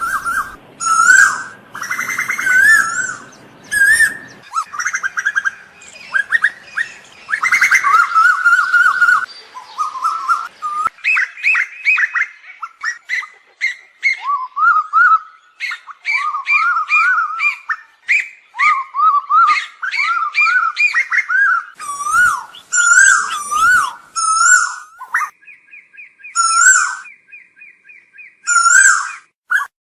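Asian koels calling, loud and dense, several whistled phrases overlapping one another, with a fast run of repeated notes about 25 seconds in.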